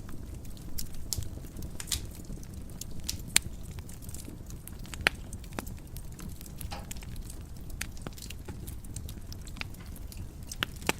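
Wood fire crackling and popping in a fireplace: irregular sharp snaps over a low steady rumble of flames, with a few louder pops.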